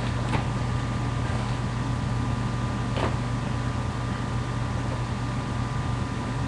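Steady low vehicle hum with a faint steady higher tone over it, and a soft brief click about three seconds in.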